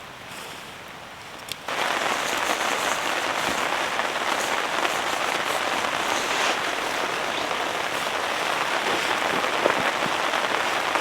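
Heavy rain falling on a tent, quieter at first and then suddenly much louder about two seconds in, a dense steady patter.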